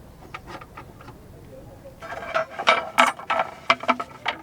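A run of light knocks and clinks, as of hard objects being handled and set down. They come sparsely at first, then thicken into a quick cluster with a short ringing about two seconds in.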